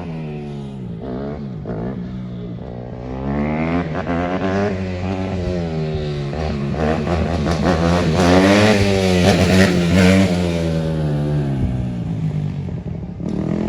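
Motorcycle engine revving up and down again and again, getting louder toward a peak about eight to ten seconds in, then easing off.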